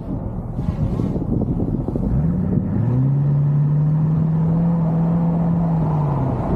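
V8 muscle-car engine under a rough low rumble, revving up about two seconds in and held at high revs for several seconds before easing off near the end, as during a burnout.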